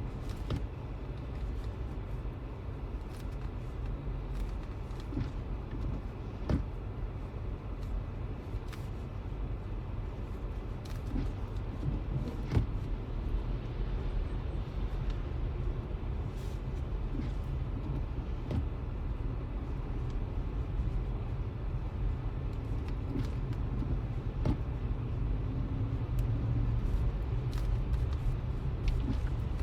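Road noise inside a moving car's cabin: a steady low rumble of engine and tyres, with scattered faint clicks and knocks.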